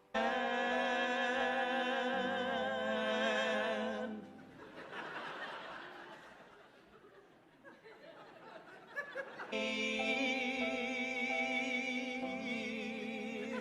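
Several voices hold a sustained operatic chord with vibrato, breaking off after about four seconds and returning for a second long held chord in the last four seconds.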